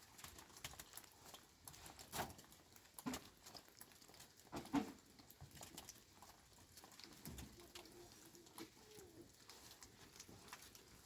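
Faint scattered taps, with a dove's low cooing, loudest about halfway through and again briefly a few seconds later.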